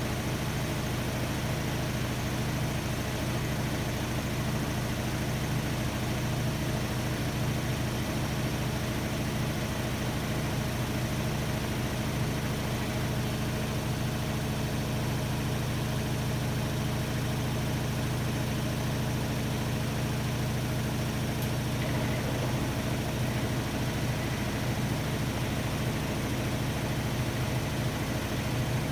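Hotpoint-Ariston Aqualtis washer-dryer running mid-programme with a steady low hum.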